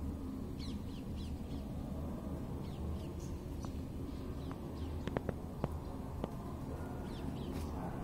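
Outdoor ambience with birds calling in short, high, falling chirps over a steady low background hum. A few sharp clicks come about five to six seconds in.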